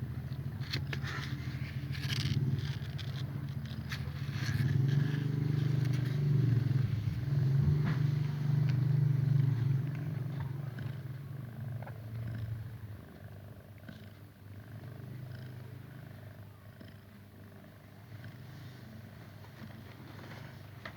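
Domestic cat purring steadily, loudest in the middle and fading toward the end, with a few light clicks in the first seconds.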